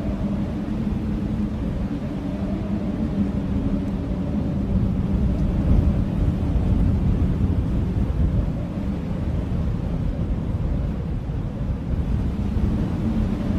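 Blizzard wind blowing in strong, steady gusts: a deep, dense wind noise with a faint low howl that fades in the middle and comes back near the end.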